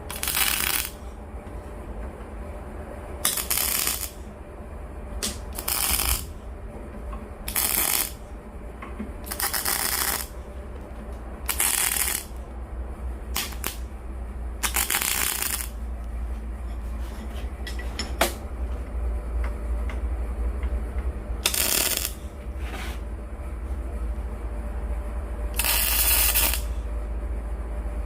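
Repeated short scrapes of hard pieces being slid into place in a steel wood-stove body during assembly, about a dozen of them with pauses between, and one sharp click. A steady low hum runs underneath.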